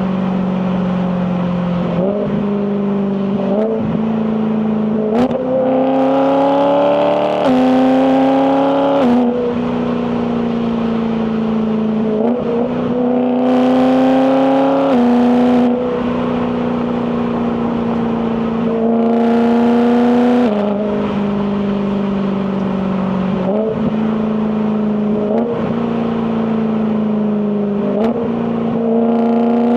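BMW E92 M3's S65 4.0-litre V8 under acceleration through the dual-clutch gearbox. The revs climb in several pulls, each ending in a sudden drop as the gearbox shifts up, with short rev blips in between.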